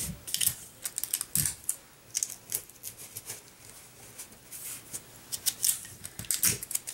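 Cardstock and sticky tape being handled: irregular short crackles and clicks as tape is pulled and pressed onto the paper.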